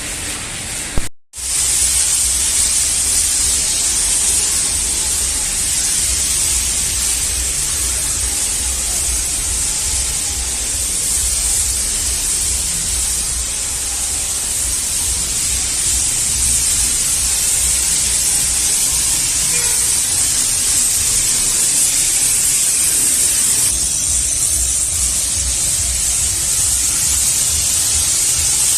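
High-pressure car-wash spray: a steady loud hiss of water jetting onto a car, with a low rumble beneath. It breaks off for an instant about a second in.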